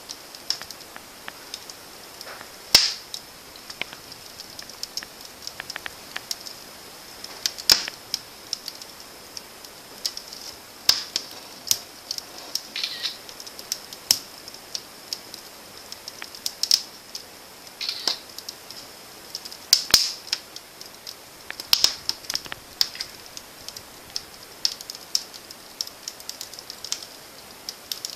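Freshly lit wood fire crackling in a fireplace: irregular sharp pops and snaps, a few of them louder than the rest.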